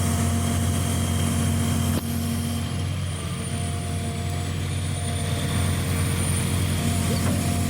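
Excavator diesel engine running steadily, with a faint thin high whine over it, as the machine moves its arm away from the released attachment. A single sharp click about two seconds in.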